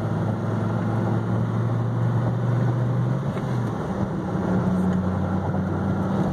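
2010 Dodge Viper SRT10's 8.4-litre V10 running steadily on the move, heard from inside the cabin over road noise. Its pitch changes about four seconds in.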